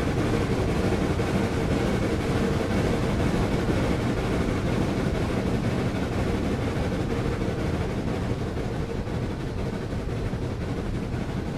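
Steam excursion train running steadily along the track, giving an even, unbroken running noise without distinct beats.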